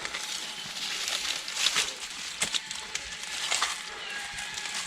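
Footsteps crunching through dry leaf litter and twigs, with a few sharp snaps about a second apart over a steady background hiss.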